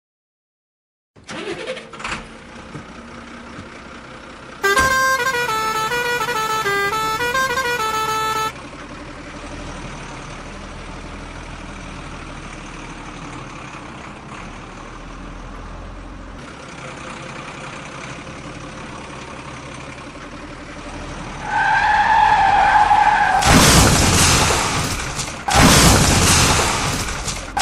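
A musical vehicle horn plays a short stepping tune for about four seconds. Later a single horn note is held for about two seconds, followed by loud noisy bursts near the end, over a steady background.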